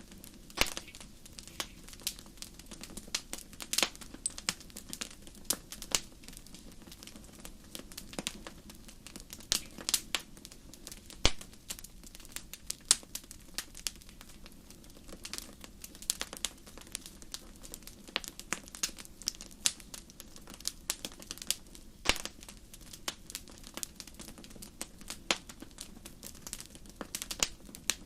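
Wood fire crackling: irregular sharp snaps and pops, a few each second, over a steady low rush of the burning.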